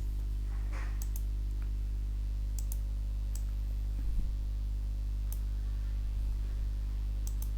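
Scattered sharp computer mouse and keyboard clicks, several in quick pairs, over a steady low electrical hum.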